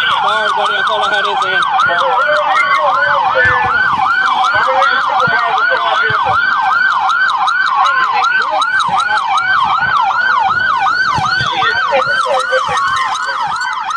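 Police patrol car siren on yelp, sweeping rapidly up and down about three times a second, with a slower siren tone gliding down in pitch under it in the second half.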